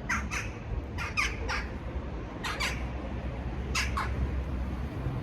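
Short, harsh bird calls, mostly in quick pairs or threes, repeating about every second or so, over a steady low rumble.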